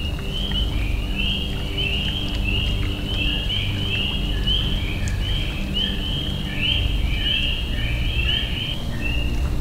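Many small birds calling together: a dense, continuous chatter of short, high chirps overlapping several times a second, over a low steady hum.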